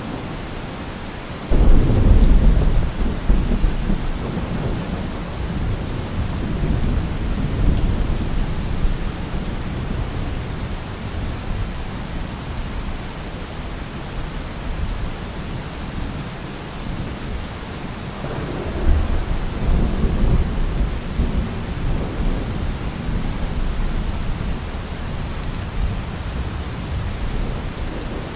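Steady heavy rain with thunder. A sudden close thunderclap about a second and a half in rumbles on for several seconds, and a second rolling peal builds near two-thirds of the way through, then fades.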